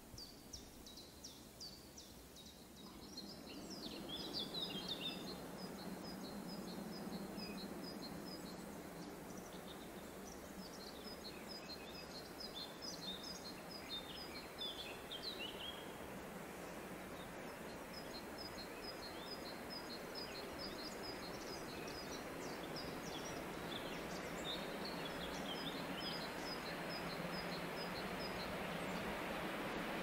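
Songbirds singing, one repeating quick runs of high, evenly spaced notes several times, over a rushing noise that swells a few seconds in and keeps slowly growing louder.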